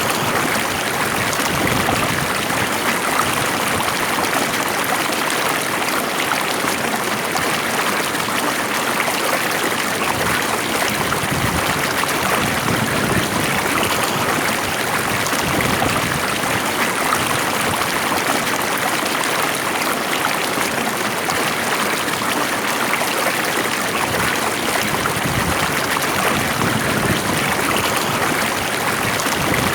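Water flowing steadily in a stream, a calm, even rush with small trickling detail.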